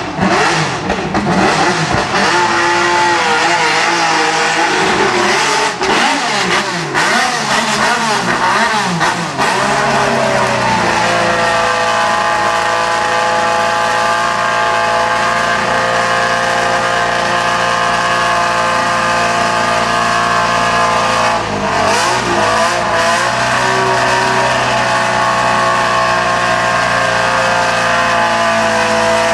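Hillclimb race car engine, its revs rising and falling with short breaks for about ten seconds, then held at a steady pitch with one brief dip about two thirds of the way through.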